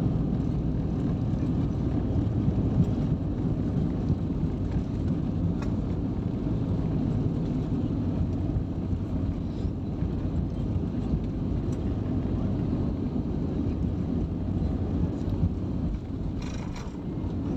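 Steady low rumble of an Airbus airliner heard from inside the passenger cabin: engine and airflow noise with a few steady low hums. A short hiss comes in near the end.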